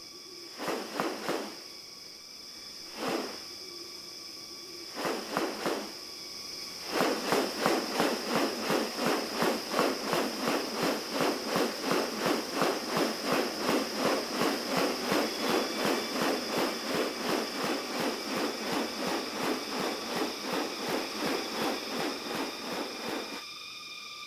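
Rainforest ambience: a steady high insect drone, with a few separate pulsed calls at first, then from about 7 s a rapid regular series of pulsed calls, about two or three a second, that stops near the end.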